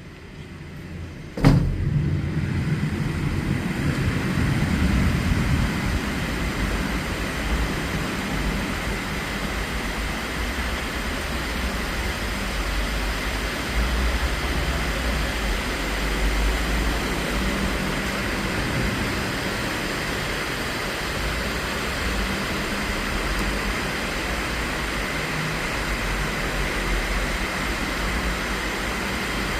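Steady rain, an even hiss with a low rumble underneath, starting just after a sharp click about a second and a half in.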